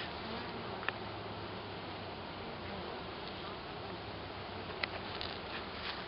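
Honey bees buzzing steadily as many fly around their hive, with a sharp click about a second in and another near the end.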